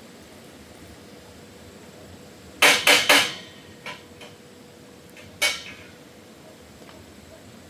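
Metal striking metal: three sharp clanks in quick succession, then a fourth a little over two seconds later, each ringing briefly, with a couple of faint knocks between.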